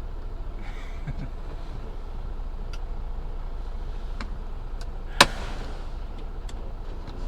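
Long freight train rolling past a railroad crossing: a steady low rumble with scattered sharp clicks, the loudest a single sharp click about five seconds in.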